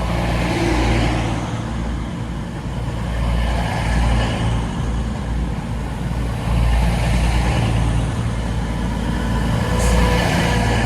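Class 222 Meridian diesel multiple unit running past with its diesel engines droning steadily, the sound swelling and easing a little.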